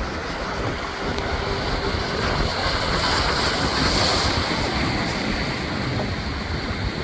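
Pacific Ocean surf breaking and washing over a rock breakwater, the rush swelling about three to four seconds in. Wind buffets the microphone.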